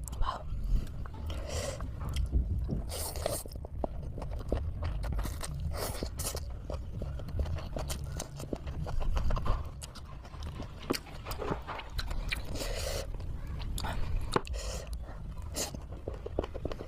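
A person chewing and biting into momos (dumplings), with irregular mouth clicks over a steady low rumble.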